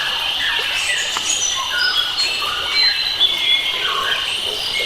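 A chorus of many wild birds calling and singing at once in forest, short whistled notes and glides overlapping, over a steady insect drone.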